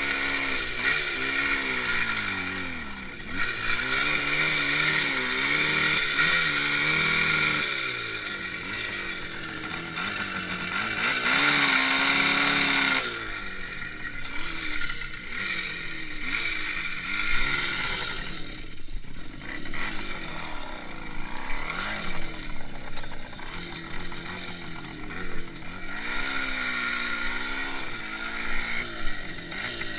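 IZh Jupiter 5 motorcycle's two-stroke twin engine running while riding, its revs rising and falling again and again as the throttle and speed change.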